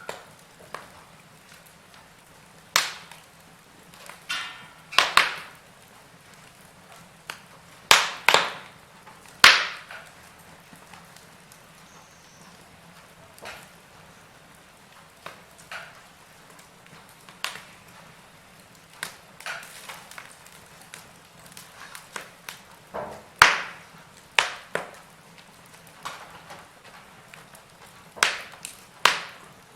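Wood fire in a fireplace crackling: irregular sharp pops and snaps at uneven intervals, several of them loud, over a faint steady hiss.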